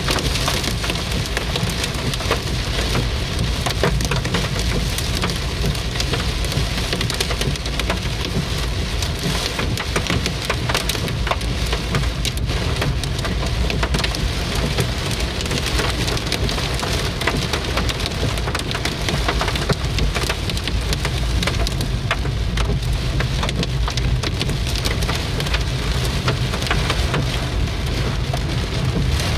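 Heavy rain mixed with hail drumming on a car's roof and windscreen, heard from inside the cabin. It is a dense, steady patter full of sharp ticks, over a low rumble.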